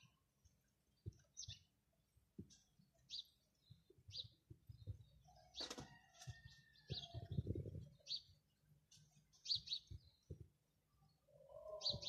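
Short, high bird chirps repeating about once a second, with a few low thuds in between, the loudest of them about seven seconds in.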